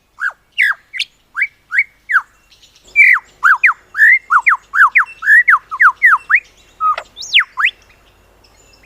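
Male lyrebird singing: a string of loud whistled notes, each sweeping down in pitch. The notes come slowly at first, then in a quicker run from about three seconds in, with a higher swooping note near the end.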